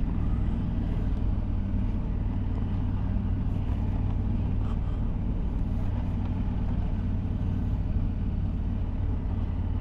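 Motorcycle engine and wind noise heard from the rider's helmet microphone while riding: a steady low rumble.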